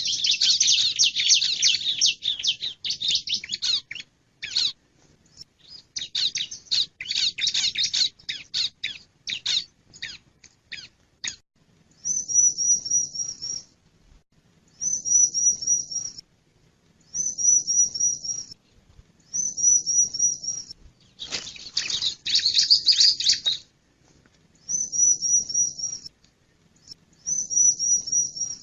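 Male bar-winged prinia (ciblek) calling: a fast, scratchy high chatter for the first ten seconds or so, then short phrases of four or five high notes repeated every two to three seconds, broken once in the middle by another burst of chatter.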